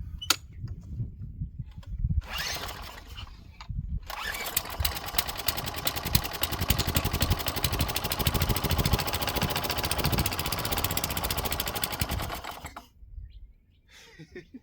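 Small gasoline engine of a Craftsman wheeled string trimmer being pull-started on sprayed starting fluid. It sputters briefly about two seconds in, then catches about four seconds in and runs for roughly eight seconds before dying out suddenly. The engine is running on the ether, which points to a dirty carburetor.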